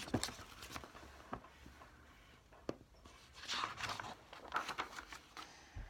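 Faint paper rustling with a few soft clicks and taps: a book's page being handled and turned. The rustling comes in two short patches past the middle.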